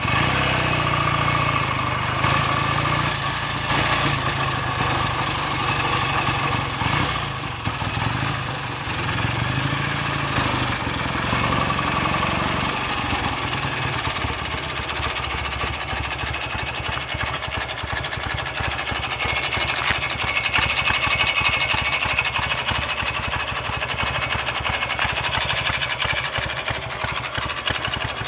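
BSA A65 650 cc parallel-twin engine running. Its note rises and falls through the first half, then settles into a steadier, even beat about halfway through. It runs cleanly, the earlier misfire and clutch slip cured.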